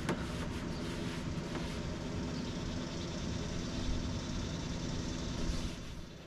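A steady mechanical drone with a low hum, easing off near the end.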